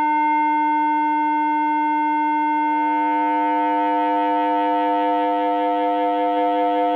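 Steady electronic test tone from a tone-generator app, played through an amplified speaker, with a string of overtones above it. About two and a half seconds in, a second oscillator's tone joins at a higher pitch, and the two tones beat slightly against each other.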